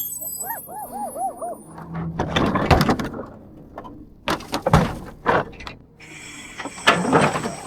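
A quick run of about six short rising-and-falling chirps, then a series of loud bangs, knocks and clattering, the kind heard in garbage-collection work around a truck and dumpsters.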